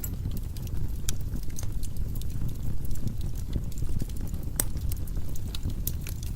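Firewood burning in a fireplace: a low steady rumble of flames with scattered crackles and pops, one sharper pop a little past halfway.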